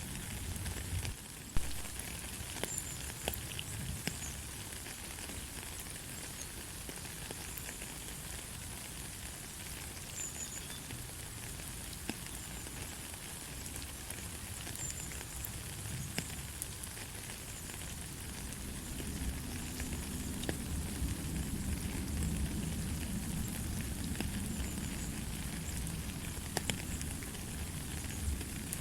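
Steady light rain falling, a soft hiss with scattered sharp drips ticking, one loud click about a second and a half in. A low rumble swells up for a few seconds about two-thirds of the way through.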